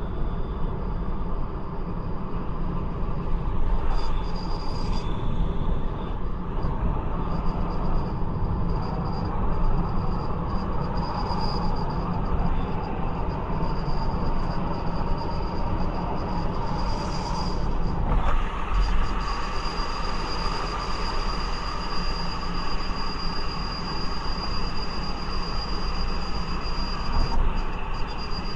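Peugeot 508 driving: steady road and running-gear rumble with a thin, high-pitched whine held over it, the abnormal noise the car makes while under way. The hiss grows brighter a little past the halfway point.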